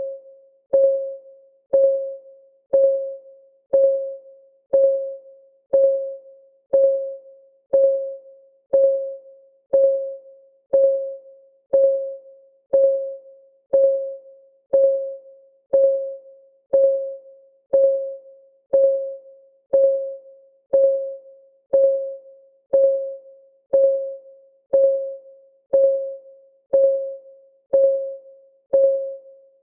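Clock-ticking sound of a countdown timer: an even tick once a second, each a short pitched tone that fades quickly.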